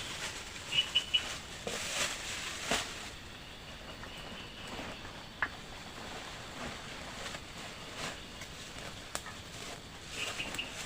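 Outdoor forest ambience: a steady hiss with a quick cluster of three short high chirps about a second in and again near the end, and a few sharp clicks and knocks scattered between.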